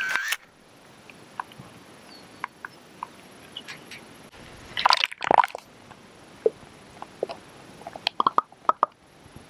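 Water dripping and splashing in irregular drops, with a louder slosh about five seconds in.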